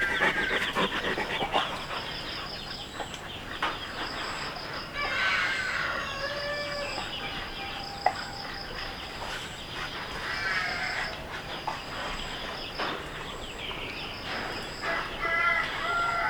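Farm animal calls: about three short pitched cries a few seconds apart, over a steady, regularly pulsing high-pitched chirping.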